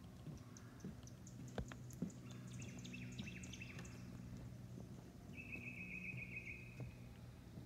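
Forest birds calling: short high chirps in the first couple of seconds, then a rapid trill of repeated notes past the halfway point, lasting about a second and a half.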